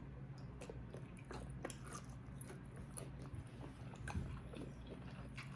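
Faint close-up chewing of food, heard as irregular small wet mouth clicks, over a steady low hum.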